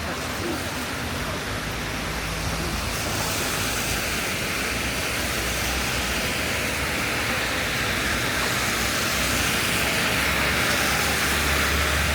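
Steady hiss of falling rain and wet street noise, growing a little louder, with a low vehicle engine rumble underneath that is strongest near the end.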